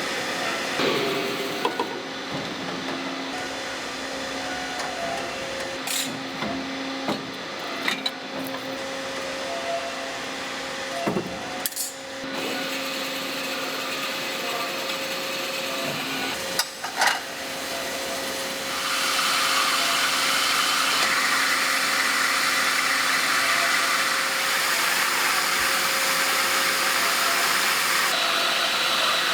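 Factory machinery at work in a bearing-ring forging plant: a steady machine hum with scattered sharp metal knocks, then a louder, even machine noise that starts about two-thirds of the way through and carries on.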